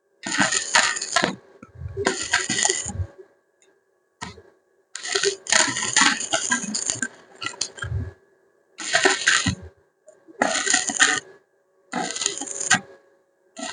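Metallic clinking and rattling in short bursts of about a second each, with abrupt silent gaps between them.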